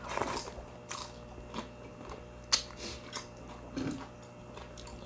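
Close-up crunching and chewing of crispy deep-fried crablets, several irregular crunches with the sharpest about two and a half seconds in.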